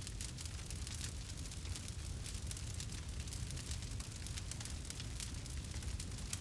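Campfire burning, with frequent sharp crackles and pops over a steady low rumble of the flames.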